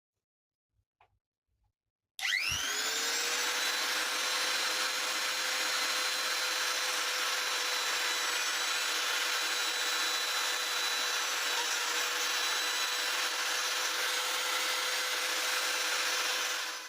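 Small electric motor spinning up about two seconds in and then running steadily with a whine, stopping abruptly at the end.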